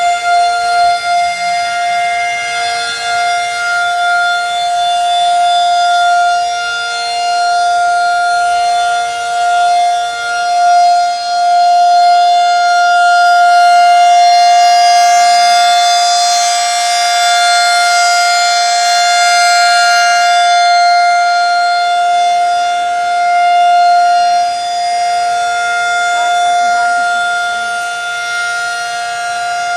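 A siren holding a steady pitch for the whole stretch, with a fainter lower tone beneath it. Its loudness swells and fades slowly.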